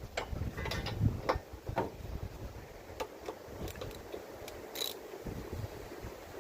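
Scattered sharp metallic clicks and knocks of tools working on a lawnmower engine's spark plug as it is taken out.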